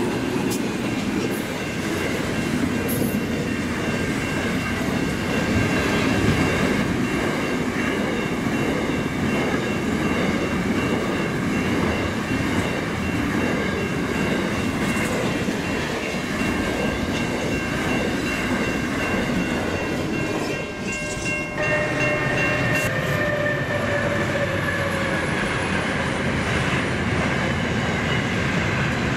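Freight train wagons rolling past: a steady, loud rumble of wheels on rail with thin high steady tones over it. The sound dips briefly about twenty seconds in, then carries on.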